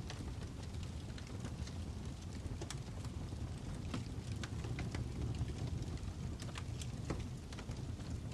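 Fire crackling: a steady low rumble of flames with irregular sharp pops and snaps, several a second.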